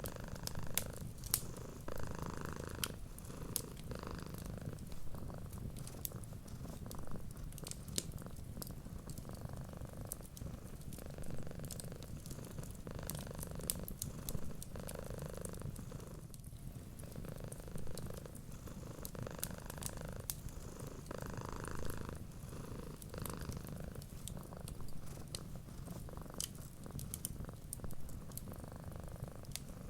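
Domestic cat purring steadily, swelling and easing with each breath, with the sharp, scattered crackles of a wood fire.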